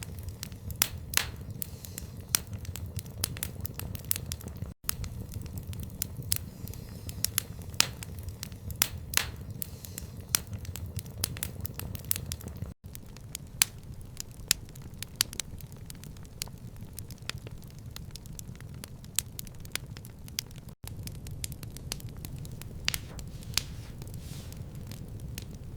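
Wood fire crackling in a stone fireplace: irregular sharp pops and snaps over a steady low rumble of the burning fire. The sound briefly cuts out three times, at even intervals of about eight seconds.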